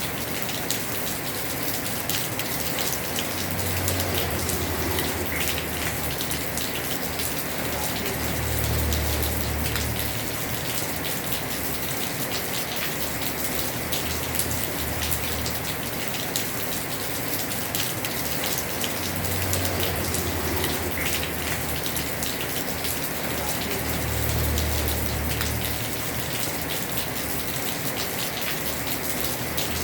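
Heavy rain falling on a house roof: a steady, dense hiss of rain with many small, sharp drop ticks. A low rumble swells and fades four times.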